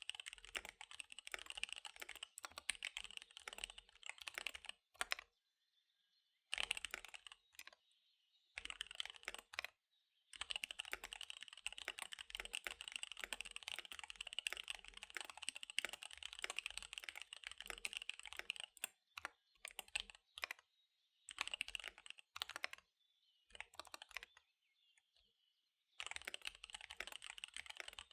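Fast typing on a KBD75 V3 mechanical keyboard with SP-Star Dark Magic Girl tactile switches and DSA keycaps: dense runs of rapid key clacks broken by several short pauses.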